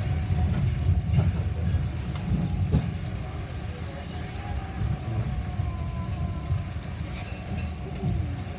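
Metra commuter train running, heard from on board: a steady low rumble with a few sharp clacks of the wheels over rail joints.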